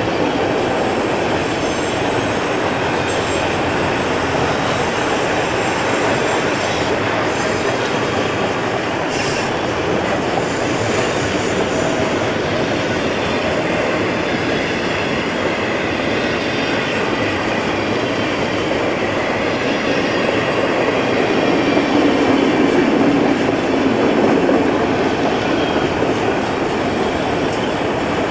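Freight cars carrying highway trailers on flatcars rolling past close by: a steady rumble and clatter of steel wheels on rail, with wheel squeal as the train takes the curve. It gets louder for a few seconds about three-quarters of the way through.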